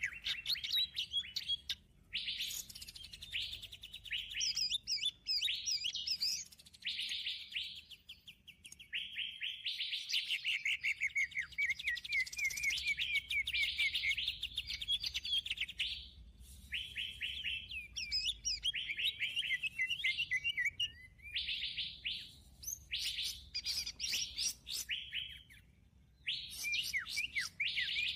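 Birdsong lure call played for bird trapping: fast, dense chirping and twittering in long phrases, broken by short pauses every few seconds.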